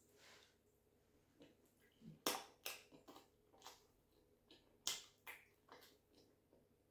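Close-miked ASMR eating sounds: a string of sharp, wet mouth clicks and smacks while chewing a mouthful of food, loudest about two and five seconds in.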